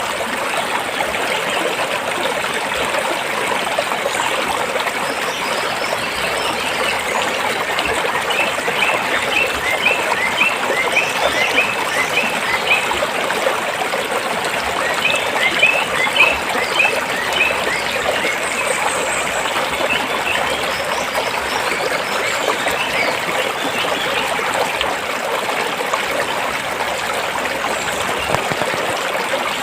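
Stream water flowing and trickling between rocks, a steady rushing. From about 8 s in and again from about 15 s in, runs of short high chirps sound over it.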